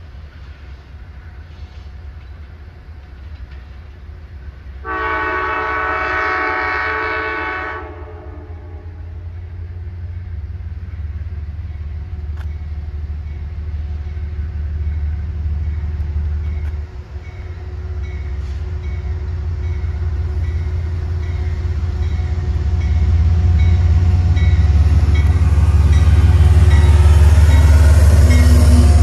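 Amtrak passenger train led by a GE Genesis diesel locomotive approaching and passing: one long blast on its horn, about three seconds, starting some five seconds in, then the diesel's rumble growing steadily louder until the locomotive goes by near the end.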